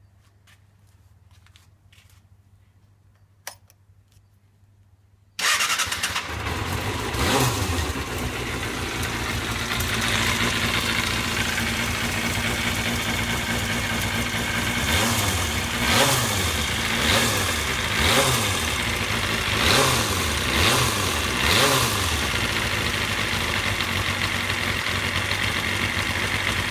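Kawasaki Balius 250 inline-four motorcycle engine starting abruptly about five seconds in after a few faint clicks, then idling with a rattling ("karakara") noise and about seven short throttle blips past the middle. The owner suspects tappet noise or the cam chain tensioner.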